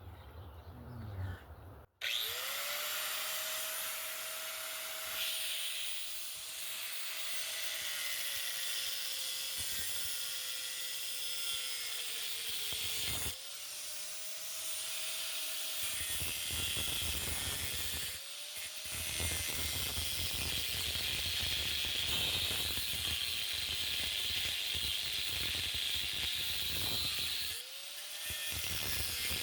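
Electric angle grinder with a cutoff wheel cutting through a metal fender strut: the motor whine spins up about two seconds in and sags in pitch as the wheel bites, under a harsh cutting hiss. It drops off briefly three times and spins back up each time.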